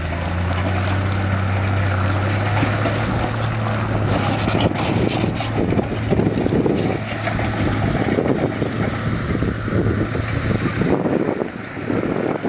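Heavy diesel earthmoving machinery running steadily with a low engine hum. From about four seconds in, a dense clattering and crunching rises over it.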